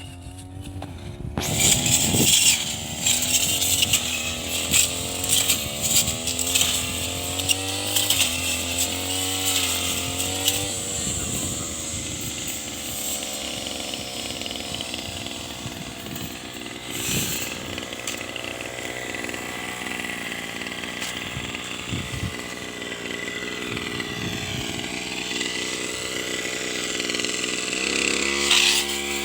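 Tanika two-stroke brush cutter engine revving up about a second and a half in, then running at high speed, its pitch wavering up and down as the blade cuts through grass and corn stalks. The pitch drops near the end.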